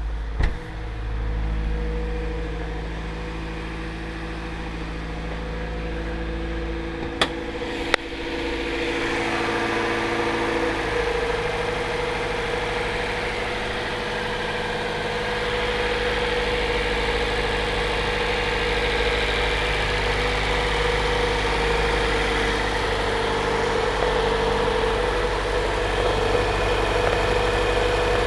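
Honda B16B 1.6-litre DOHC VTEC four-cylinder engine idling steadily after a cold start. Two sharp clicks come about seven and eight seconds in, and after them the engine's higher mechanical sound is louder.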